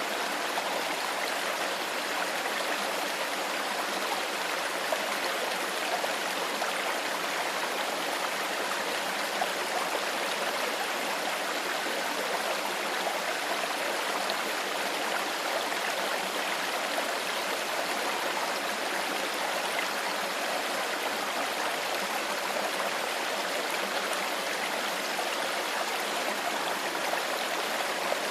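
Shallow stream flowing steadily over rocks: a constant burble and rush of water.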